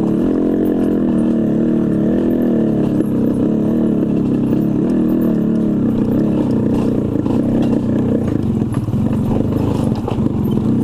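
Two-stroke motorcycle engine running under way, its pitch wavering up and down with the throttle.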